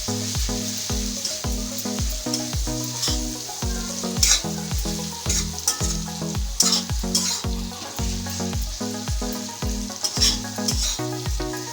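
Spiced tomato masala sizzling in hot oil in a pan while a spatula stirs and scrapes it, with scrapes standing out now and then over the sizzle. Background music with a steady bass beat plays underneath.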